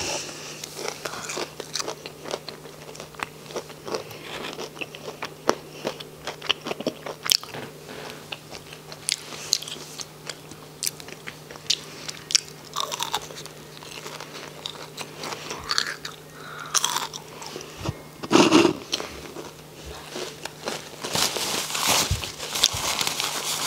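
Close-up biting and chewing of crispy fried onion rings, with many sharp crunches. A louder knock comes about three-quarters of the way through, and near the end there is dense paper rustling as a paper wrapper is handled. A faint steady low hum runs underneath.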